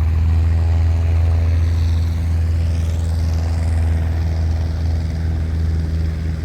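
Light aircraft's piston engine running steadily: a loud, deep drone with a stack of even engine tones that holds throughout.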